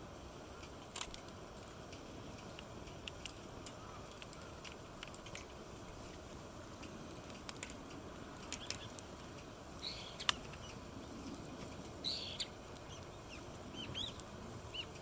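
Wood campfire crackling with scattered sharp pops over a steady low hiss, while birds call with short chirps, several more of them near the end.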